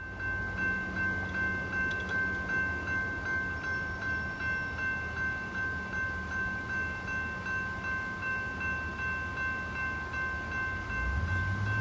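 Railroad grade-crossing bell ringing in a steady, even rhythm of about two and a half strikes a second. Under it there is a low hum, and a low drone rises in pitch near the end.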